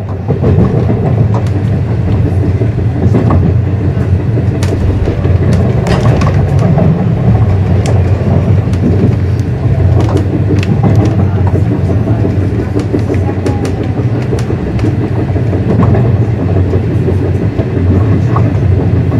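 Passenger train in motion, heard from inside the carriage: a steady low rumble of the wheels on the rails, with scattered short clicks and knocks throughout.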